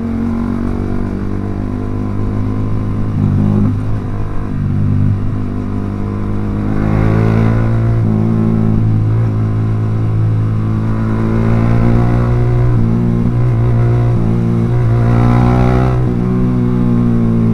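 Yamaha R15 V3's single-cylinder engine through an aftermarket Proliner exhaust, heard while riding, its pitch rising three times as it accelerates.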